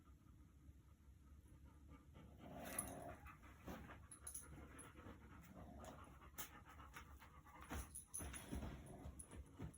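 A pug snoring faintly in its sleep: slow, noisy breaths, with the clearest snores about three seconds apart.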